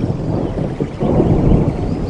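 Steady rain with a low rolling thunder rumble that swells about a second in.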